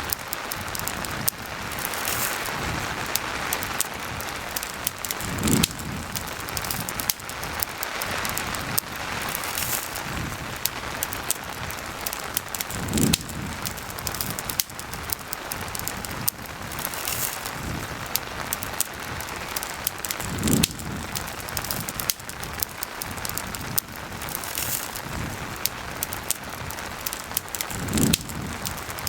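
Steady rain falling, with the snapping crackle of a campfire throughout. A low swell rises and fades four times, about every seven and a half seconds.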